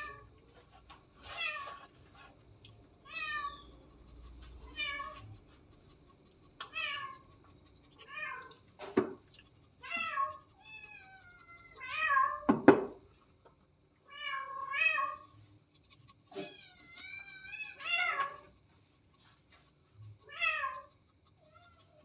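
Domestic cat meowing repeatedly, about a dozen drawn-out calls with short pauses between them, some wavering in pitch. Two sharp knocks come near the middle, the second the loudest sound.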